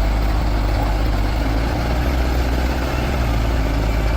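Heavy diesel engine of large machinery running steadily with a deep, low rumble.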